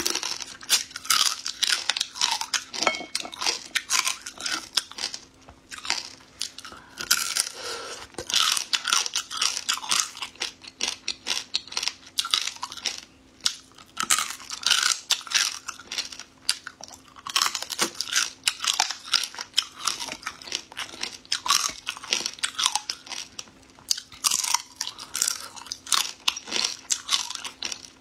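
Close-up chewing and crunching of shell-on prawns: quick clusters of crisp crackles as the shells are bitten and chewed, with brief pauses between mouthfuls.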